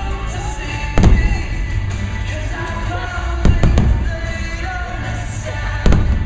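Aerial fireworks shells bursting in sharp booms: one about a second in, a quick run of three in the middle and a close pair near the end, over loud music with singing.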